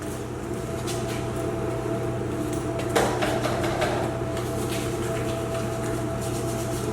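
Steady mechanical hum with a constant low drone and a fixed higher tone, with a single short knock about three seconds in.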